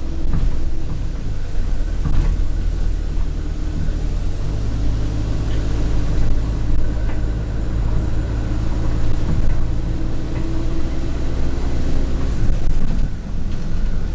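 Alexander Dennis Enviro200 bus's diesel engine running, pulling harder from about four seconds in, with a high-pitched turbo whine that cuts off near the end as the load comes off. Scattered rattles of the bus's interior run throughout.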